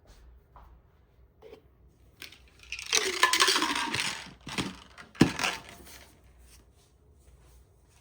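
A burst of rustling, crinkling and clattering from something being handled, starting about two seconds in and stopping about six seconds in, with a sharp knock near the end.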